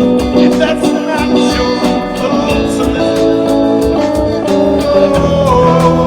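Improvised band jam: guitar with other instruments over a steady beat, with one note bending late on.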